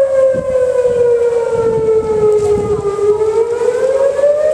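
Outdoor tornado warning siren wailing, its pitch slowly falling and then rising again near the end.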